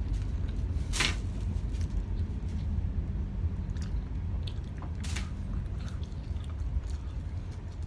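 Close-up chewing and biting of sauce-covered whole chicken wings, with two sharper, louder bites or slurps about a second in and about five seconds in, over a steady low hum.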